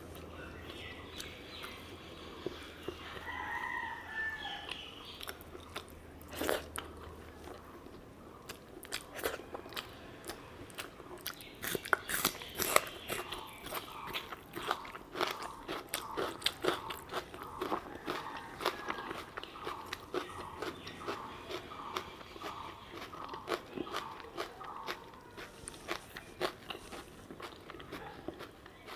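Close-miked chewing and mouth sounds of a person eating curry and rice: wet smacking and crunching clicks, sparse at first and coming thick and fast from about a third of the way in.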